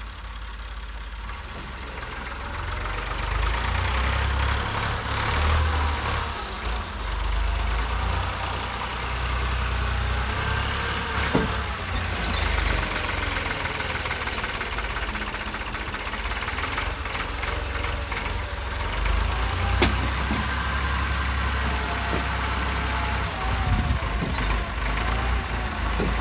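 Massey Ferguson 260 tractor's diesel engine working under load. It gets louder about two seconds in and keeps up a steady low rumble, its pitch shifting slightly as the revs vary.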